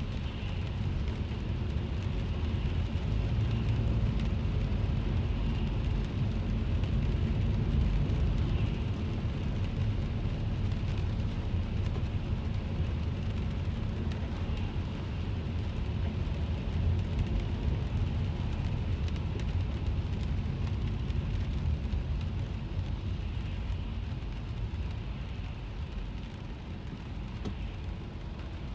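Car interior while driving in rain: a steady low rumble of the car on the wet road, with rain pattering on the body and windscreen. The rumble eases a little near the end.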